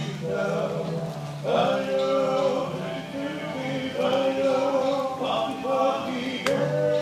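Maori performers singing a song with male voices, in long held notes that each begin with an upward slide, over a steady low drone.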